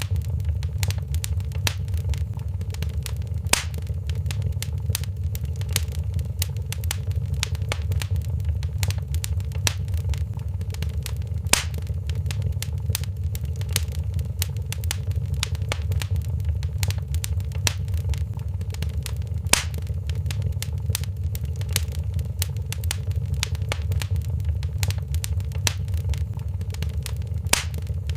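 Fireplace wood fire crackling, with frequent sharp pops and snaps over a steady low rumble of the flames; a few louder pops stand out every several seconds.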